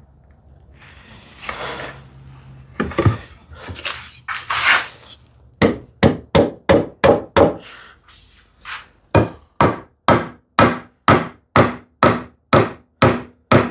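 A tenon being tapped into its mortise in a wooden rail: sharp wooden taps at about two a second, a short run, a brief pause, then a longer steady run, after some handling and knocking of the workpiece early on.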